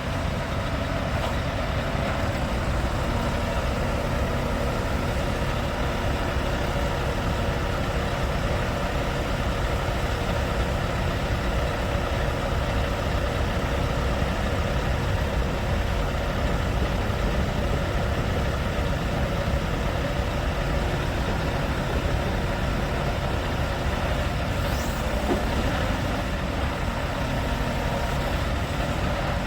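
Scania R580's 16-litre V8 diesel engine running steadily at idle.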